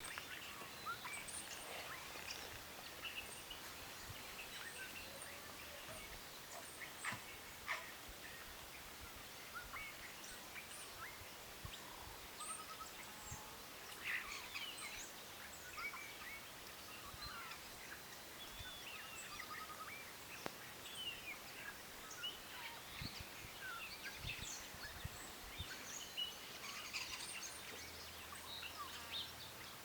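Birds calling and singing, many short chirps and warbling phrases scattered throughout, over a steady faint background hiss.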